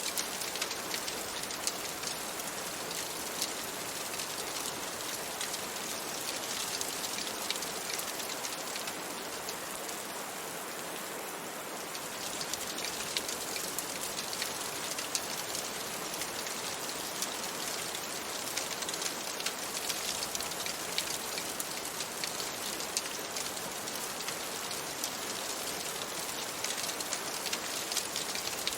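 Steady rain falling on a window, with many small sharp ticks of drops throughout. It turns smoother, with fewer ticks, for a few seconds about ten seconds in.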